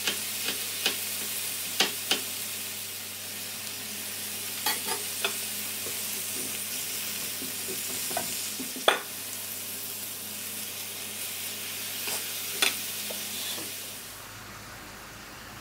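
Mushrooms and red onion sizzling as they fry in a ridged grill pan, stirred with a utensil that clacks against the pan now and then, the loudest clack just before nine seconds in. The sizzle drops off sharply about fourteen seconds in.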